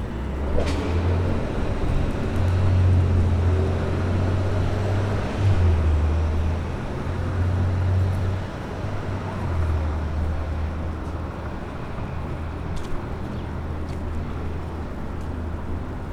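City street traffic: the low engine rumble of passing vehicles, swelling and fading and loudest in the first half, with a few light clicks.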